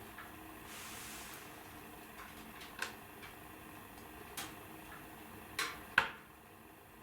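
Wood fire in a fireplace crackling: a faint steady hiss with several sharp pops, the loudest about six seconds in.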